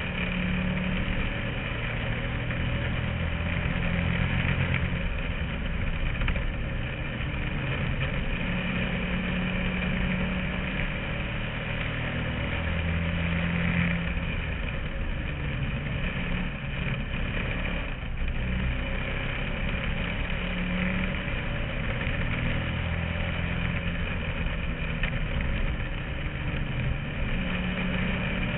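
Bandolero race car engine running hard, heard from inside the car, its note rising and falling every few seconds as the car laps.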